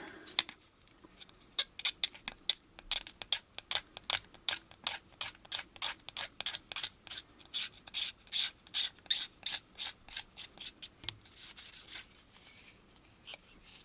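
A hobby knife's number 16 blade scraping a styrene plastic model part crosswise, in a run of short, quick strokes about three a second that stop about eleven seconds in.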